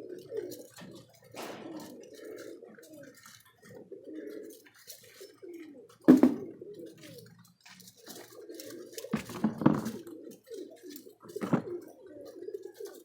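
Domestic pigeons cooing continuously in a loft, broken by several sharp knocks and clatters. The loudest knock comes about six seconds in, and a cluster follows near the two-thirds mark.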